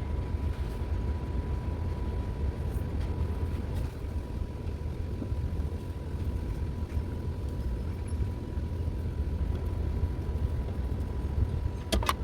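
Steady low mechanical rumble with a faint constant high tone, and a few light metallic clicks near the end.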